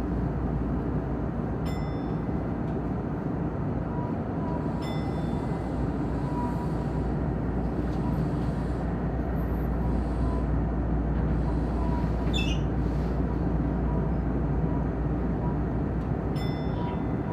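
Tokyu Den-en-toshi Line electric train running at reduced speed, held back by the train ahead: a steady running rumble. A few short high pings come through, and about twelve seconds in there is a brief wavering squeal.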